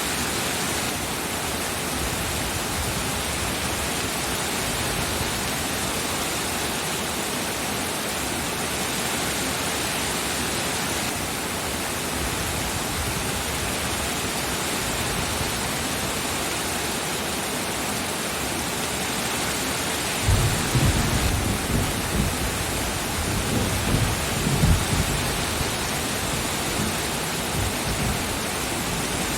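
Steady heavy rain. About two-thirds of the way through, a low rumble of thunder rolls for several seconds, strongest near its end, then fades back into the rain.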